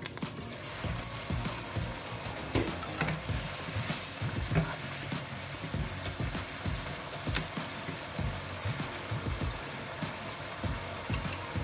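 Sliced cucumber and garlic simmering and sizzling in a little seasoned liquid in a nonstick wok, a steady fine crackle and bubbling. A wooden spatula stirs them, adding a few soft scrapes and taps.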